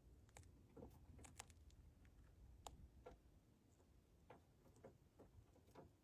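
Near silence with faint, irregular small clicks and ticks, about a dozen in six seconds, over a low hum.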